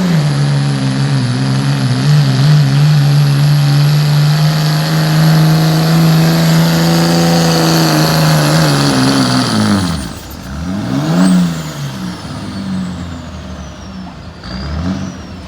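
Pulling truck's engine running hard and steady under load for about nine seconds, then its pitch sags and drops away as the pull ends. It follows with a quick rev up and down, and a shorter rev near the end.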